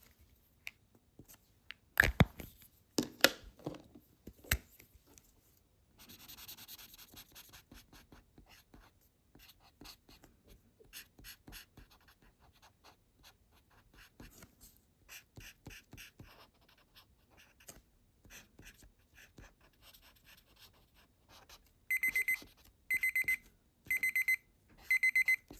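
Felt-tip marker strokes scratching lightly on paper, with a few sharp clicks early on. Near the end a digital timer alarm starts beeping, a high electronic beep repeated in quick groups about once a second, signalling the time limit is up.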